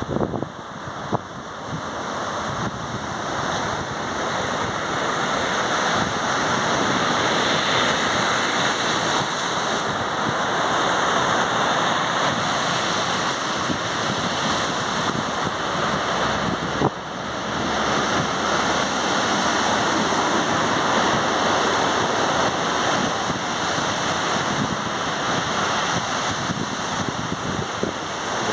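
Sea surf and wind rushing over the microphone, a steady loud noise that swells and eases, with a brief drop about 17 seconds in.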